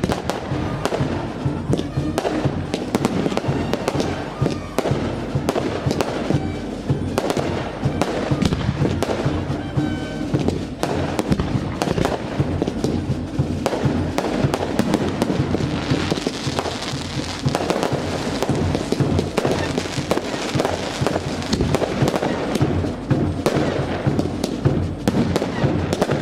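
Fireworks display: a dense, unbroken run of bangs and crackles, with a brighter crackling hiss rising about sixteen seconds in.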